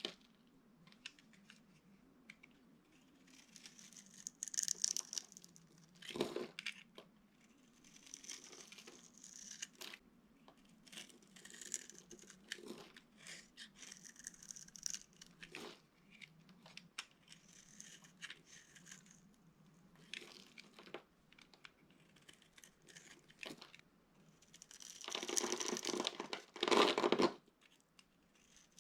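Dry, brittle material being crushed and crumbled by hand, with irregular crackling and crunching. There is a louder, denser run of crunching near the end.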